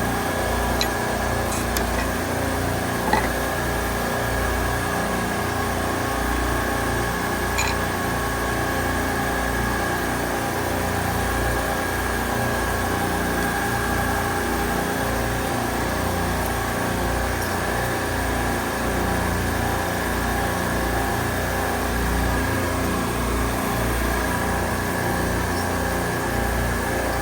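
Steady machinery drone of running refrigeration equipment: a constant low hum with a thin, unchanging high whine. A few faint clicks and taps come near the start.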